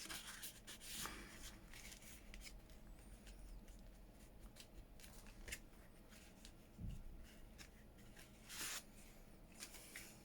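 Faint handling of paper and card on a tabletop: scattered light taps and soft rustles, with a louder rustle a little before the end.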